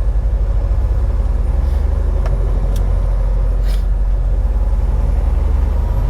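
Semi-truck's diesel engine and road noise as a steady low drone inside the cab while driving, with a few short clicks and a brief hiss midway.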